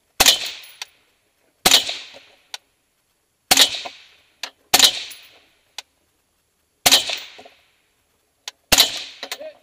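AR-15 rifle fired six times in deliberate, aimed shots about one to two seconds apart, each a sharp crack with a short ringing tail. A few fainter sharp clicks fall between the shots.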